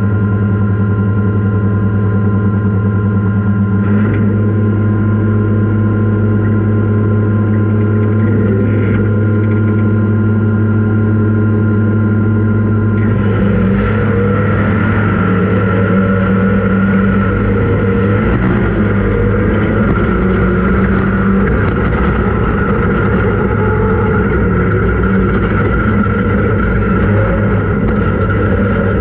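Off-road race vehicle engine running at a steady speed, its pitch holding constant. A broader rushing noise joins about thirteen seconds in.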